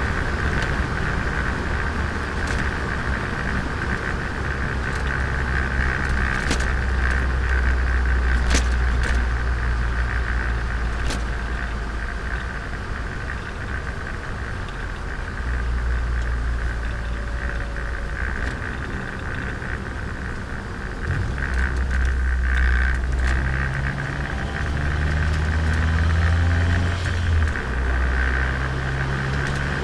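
Turbocharged Nissan Micra engine running under way, with tyre and road noise. The low engine note steps up and down several times as the revs change, and there are a couple of sharp clicks about a third of the way in.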